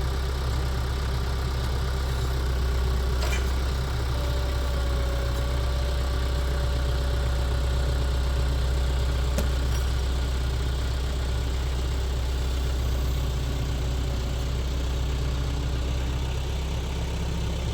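An engine running steadily, a low even drone with no change in speed. It is the machine being used to pull a log out of a wood pile.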